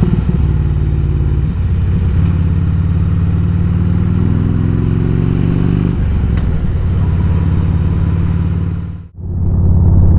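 Harley-Davidson Road King Classic's Twin Cam 96 V-twin running on the road, its pitch rising for a few seconds as the bike accelerates, then dropping at a gear change about six seconds in and holding steady. The sound dips out briefly about nine seconds in.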